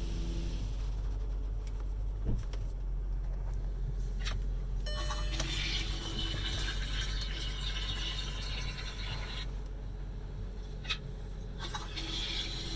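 Steady low hum inside a car in an automatic car wash, with rushing hiss that comes in about halfway through for around four seconds and returns near the end.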